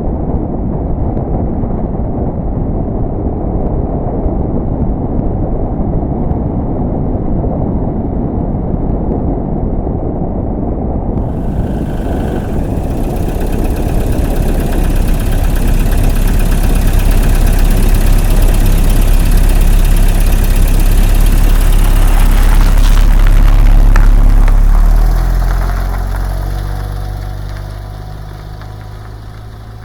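A vehicle engine running, with a low rumble at first. About a third of the way in a hiss joins and the sound grows louder. Near the end the pitch falls and the sound dies down, like revs settling to idle.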